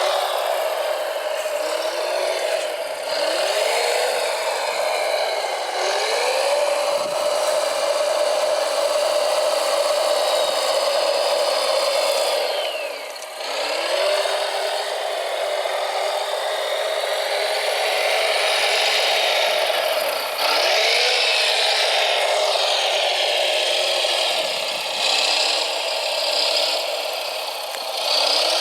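Small electric motors and gearboxes of radio-controlled construction models whining, the pitch gliding up and down again and again as they speed up and slow down, with a brief drop about halfway through.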